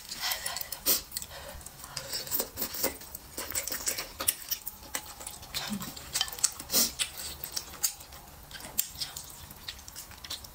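Close-miked mukbang eating sounds: a person chewing food with many short, wet mouth clicks and lip smacks. There are occasional light clicks of chopsticks against the bowl.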